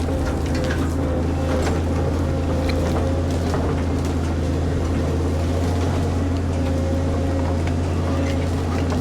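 Caterpillar 140M motor grader's diesel engine running steadily, a deep even drone with a faint held whine above it and small rattles here and there.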